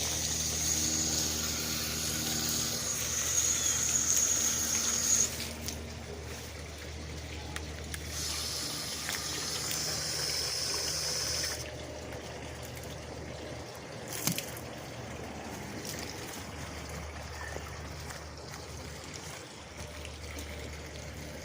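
Water trickling and splashing from a small garden fountain, over a low steady hum. A high, even whine sounds for about five seconds at the start and again for a few seconds in the middle.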